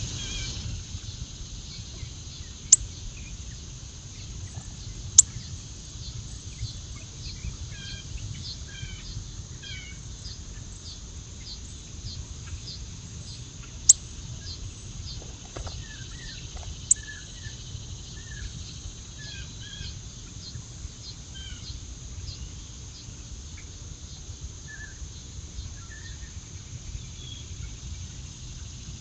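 Backyard birds giving many short, scattered chirps over a steady high buzz that pulses about twice a second. Four loud, sharp clicks are spread through the stretch.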